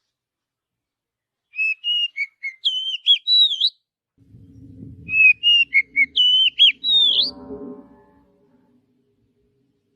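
Oriental magpie-robin (kacer) singing two phrases of quick, varied whistled notes, each about two seconds long, the second starting about five seconds in. A fainter low drone runs under the second phrase.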